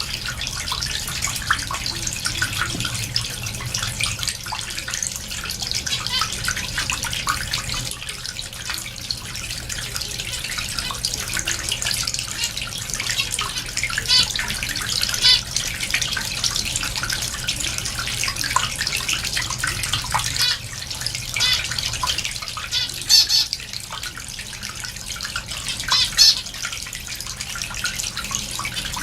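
Small cage finches chirping continuously as a flock, with short high calls overlapping throughout and a few louder calls standing out several times, over a steady low hum.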